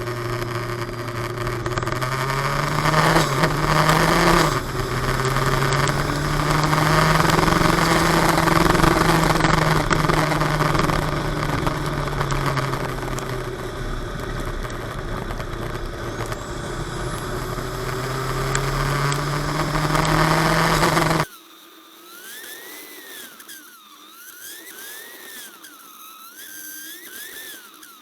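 Open-wheel race car engine under load, heard from the car, its note rising and falling as it drives the track. About 21 seconds in it cuts off abruptly, leaving a much quieter wavering whine.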